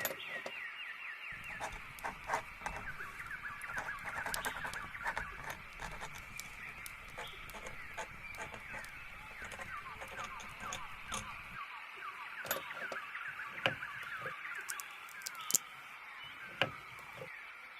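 Birds chirping busily in quick, repeated short falling notes, with scattered light clicks and taps. A low rumble sits underneath until about twelve seconds in, then drops away.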